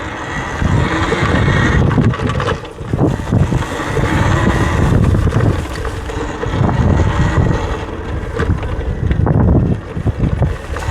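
Wind buffeting the microphone, in loud uneven gusts, over the rumble of a Talaria electric dirt bike riding over rough ground.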